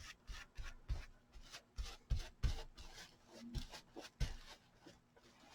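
Paintbrush brushing a waterproofing coating onto a fabric hat: irregular scratchy strokes with a few soft knocks.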